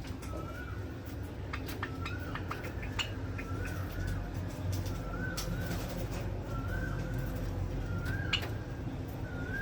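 Cage birds calling: a short rising-and-falling note repeating every second or two, with sharp clicky chips in between, over a steady low hum.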